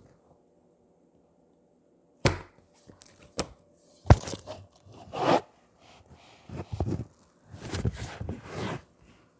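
Slime being handled close to the microphone: a few sharp pops and clicks starting about two seconds in, then several longer squishing presses.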